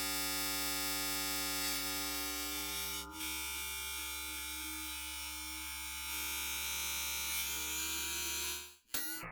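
White noise time-stretched to four times its length with Bitwig's Elastique Pro algorithm, playing back as a buzzy drone of many steady tones instead of a smooth hiss: the stretching artifacts of the algorithm. It cuts off just before the end.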